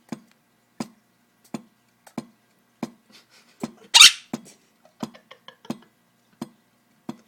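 Pet talking bird making a series of sharp clicks, about one every two-thirds of a second, with one loud, harsh, hiss-like call about four seconds in.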